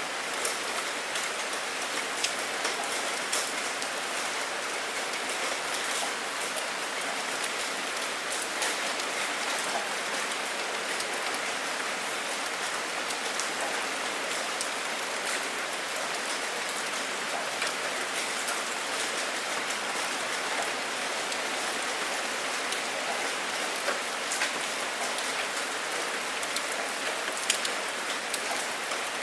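Steady rain falling, a dense even hiss of drops with scattered sharper drop ticks; no thunder.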